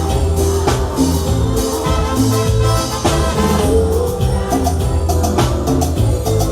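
Live cumbia band playing an instrumental passage: a steady bass line with drum kit and percussion keeping the beat under sustained instrument notes.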